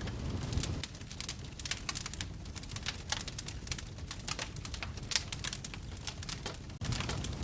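Wood fire crackling in a fireplace: frequent irregular sharp pops and snaps over a low rumble of the flames. The rumble thins about a second in and comes back louder near the end.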